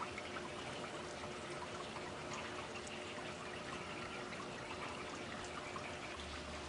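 Steady running-water noise, like a trickling stream, with a few faint short high chirps over it.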